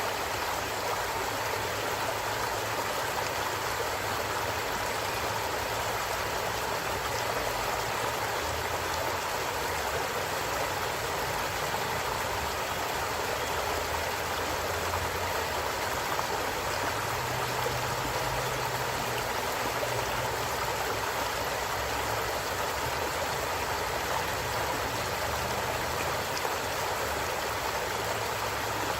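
Stream water running steadily over rocks, an even rushing with a faint low rumble underneath.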